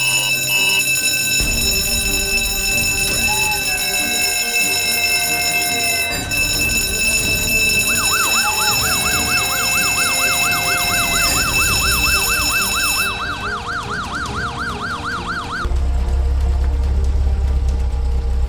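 A fire station's electric alarm bell ringing continuously, with a low rumble underneath; about eight seconds in a fast up-and-down wailing siren joins, the bell stops about five seconds later, and the siren stops shortly after. Near the end the low rumble gets louder.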